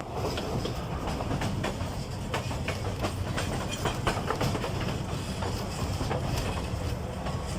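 Narrow-gauge forest railway train hauled by an Mk48 diesel locomotive running at steady speed: a constant low engine drone with irregular clicks and rattles from the wheels and wagons on the track.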